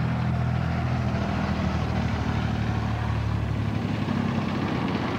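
Airbus A320's jet engines running with a steady low drone.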